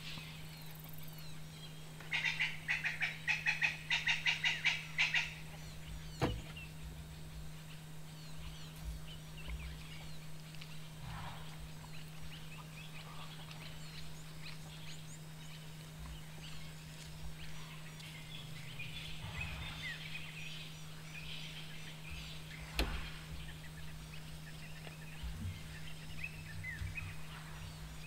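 Wild birds calling: a loud, rapid cackling call starting about two seconds in and lasting about three seconds, then scattered faint chirps and calls. A steady low hum runs underneath, and there are two sharp clicks.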